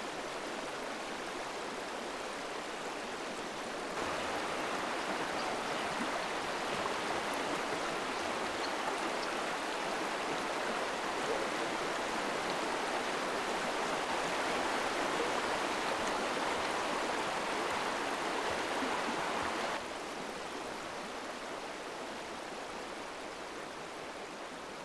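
River water flowing in a steady rush, stepping up louder about four seconds in and dropping back about twenty seconds in.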